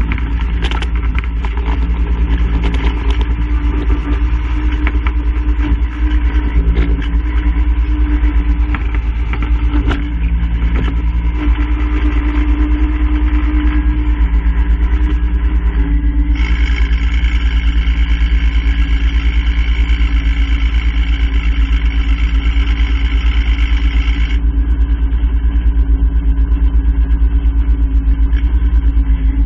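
An engine running steadily, with a higher whining sound joining in from about halfway through for several seconds.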